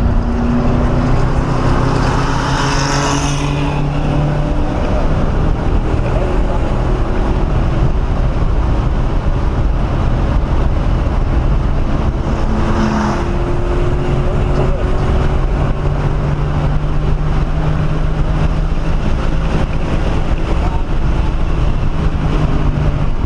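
1997 SVT Cobra Mustang's 4.6-litre V8 running hard at lapping speed on a race track, heard from inside the cabin with wind and road noise, its pitch stepping up and down with throttle and gear changes. Twice there is a brief rushing noise, about three seconds in and again around thirteen seconds.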